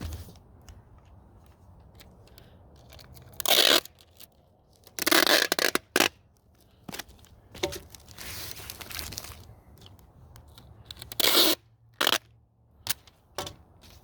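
Packing tape pulled off its roll in a few loud rasping strips: one a few seconds in, a longer pull with a short one right after it, and another near the end. Quiet rustling of packing material in between.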